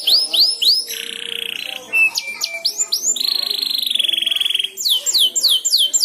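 Canary singing: runs of quick whistled notes sweeping downward, about five a second, broken by two long rapid buzzing trills, one about a second in and a longer one past the three-second mark.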